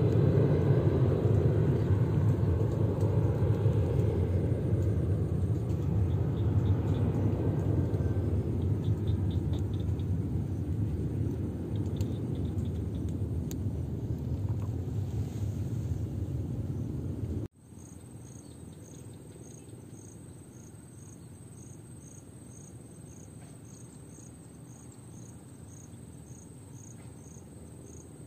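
Avro RJ85 four-engine jet's low engine rumble slowly fading as it climbs away after takeoff. It cuts off abruptly about two-thirds of the way in, leaving a cricket chirping in even pulses about twice a second.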